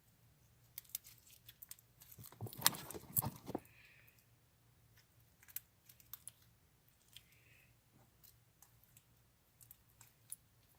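Homemade slime being handled: soft scattered clicks and pops, with a denser spell of sticky crackling about two seconds in that lasts a second or so.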